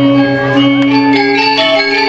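Balinese gamelan playing an instrumental tabuh kreasi: bronze metallophones ring in long sustained tones, with new notes struck about a second in.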